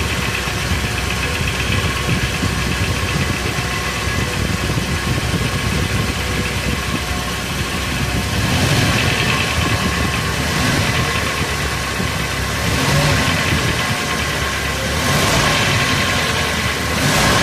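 ZMZ-409 inline four-cylinder engine running at idle with a knock, which the owner takes most likely for the hydraulic lifters. The engine note swells briefly several times in the second half.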